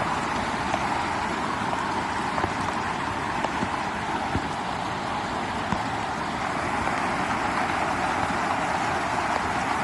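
Steady rush of a river running high after rain, with a few faint clicks.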